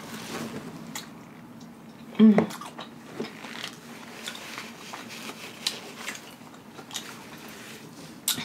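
A person chewing boiled crawfish tail meat with the mouth closed: soft wet smacks and small clicks. A brief hummed voice sound about two seconds in.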